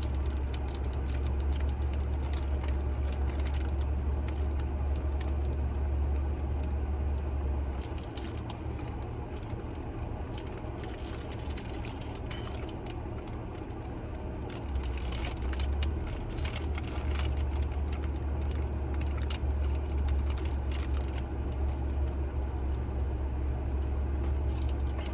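Steady low engine hum inside a car's cabin, dipping for several seconds in the middle, with scattered small clicks and rustles on top.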